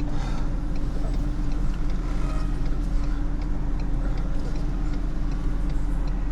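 Vehicle engine idling steadily, with a light regular ticking a couple of times a second.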